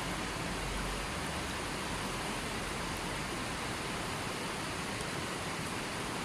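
Steady, even hiss of falling water, such as rain or a waterfall, with no distinct drops, calls or changes.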